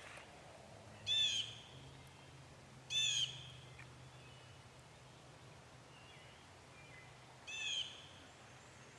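A bird calling three times, each call a short high-pitched note of about half a second, spaced a couple of seconds and then several seconds apart.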